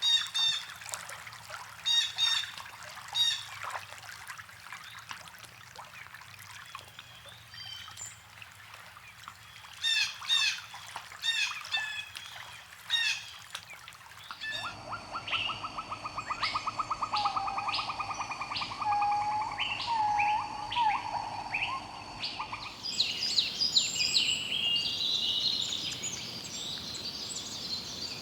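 Birds calling and singing in three spliced recordings: repeated short, high chirping phrases; then, changing abruptly about halfway, a rapid trill with whistled notes; then, near the end, a dense run of high chirps.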